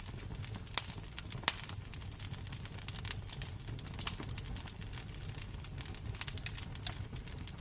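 Wood fire crackling in a fireplace: irregular small crackles with a few sharper pops, over a steady low rumble.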